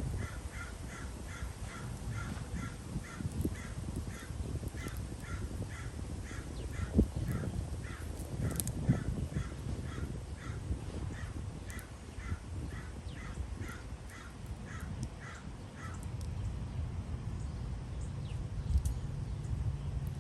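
A bird calling a long series of short, evenly spaced notes, about three a second, which stops about sixteen seconds in, over a steady low rumble.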